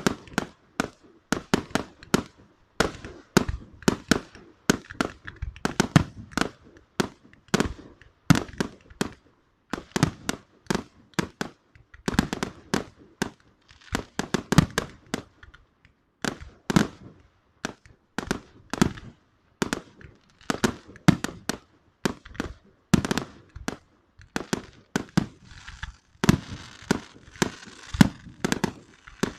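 Fireworks going off: an irregular, unbroken string of sharp bangs, several a second, with a hiss joining them near the end.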